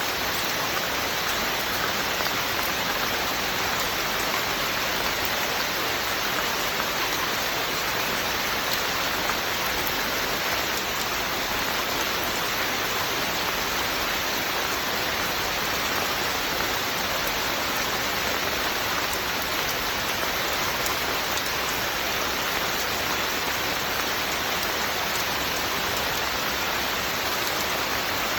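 Steady rain falling, an even hiss with faint drop ticks, unbroken and unchanging in level.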